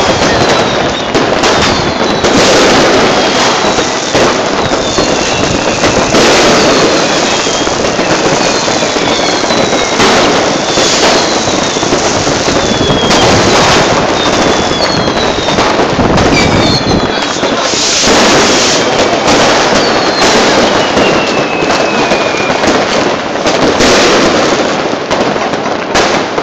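Many fireworks going off at once, a continuous crackle of bangs from rockets and firecrackers. Through it, short whistles glide down in pitch again and again.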